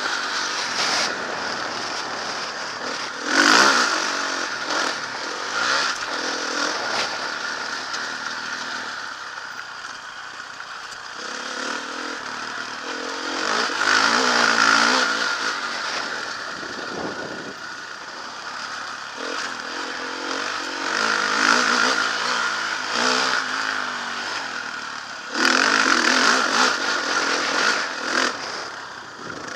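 Motocross dirt bike engine revving up and backing off over and over, as on a ride around a track, with loud surges several times between quieter stretches.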